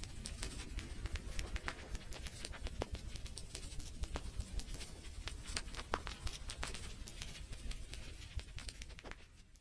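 Wood fire crackling: a steady low rumble of flames with frequent irregular sharp pops and snaps. It fades out near the end.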